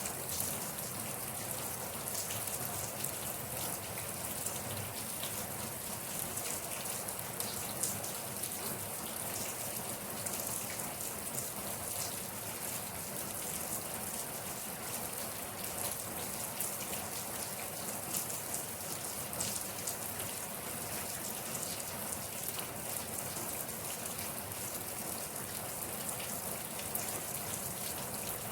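Steady rain falling on a surface, a continuous hiss thick with the patter of individual drops.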